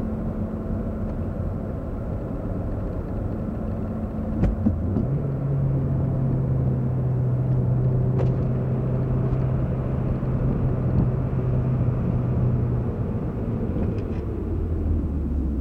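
A Honda Civic's 1.8-litre SOHC four-cylinder engine running with road and cabin rumble, heard from inside the car, at a steady pace. The engine note steps up with a click about four and a half seconds in, holds steady, then drops near the end.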